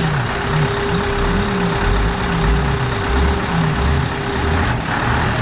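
Scania V8 580 truck engine running with a low rumble and a steady whine that stops about four and a half seconds in, followed by a short hiss of air near the end.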